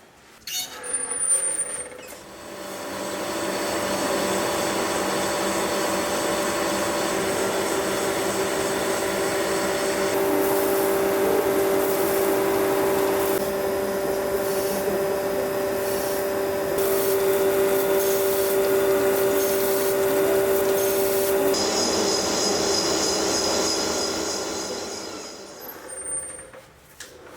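Motor-driven power tool running steadily under load, a steady whine over a rasping hiss, for about twenty seconds. It starts after a few short clatters and fades out near the end.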